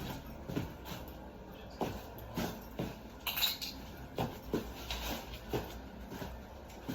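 Irregular light knocks and metallic clinks of hand tools and washer-dryer panel parts being handled during disassembly, with a brief scraping rasp about three and a half seconds in.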